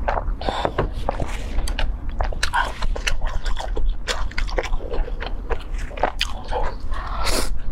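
Close-miked eating sounds: a person biting and chewing food, a rapid, irregular run of wet clicks and smacks.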